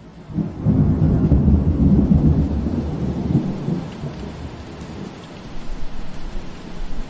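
A roll of thunder over steady rain: a low rumble that swells about half a second in, is loudest for the next three seconds or so, and dies away by about five seconds in, leaving the even hiss of rain.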